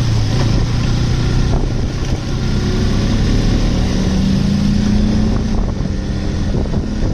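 Motorcycle engine running on the move, over a steady rush of noise; the engine note climbs a little around the middle.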